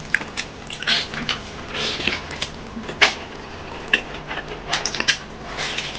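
Close-miked eating sounds: irregular crunching and chewing of food, with a few sharp clicks.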